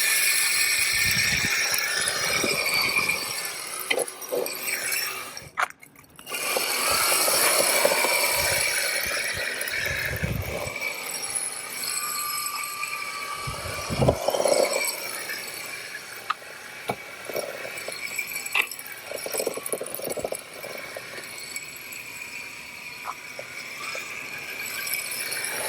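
MJX Hyper Go 14302 RC rally car running on a 2S LiPo, its electric motor whining while the drift tyres scrub and skid over the ground, with rattles and small knocks. The sound cuts out briefly about six seconds in.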